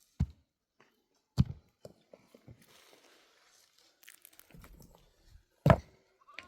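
Three sharp knocks, two in the first second and a half and one near the end, with faint rustling between them.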